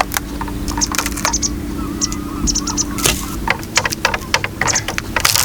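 Dry dead branches cracking and snapping as they are broken off and gathered: an irregular string of sharp snaps.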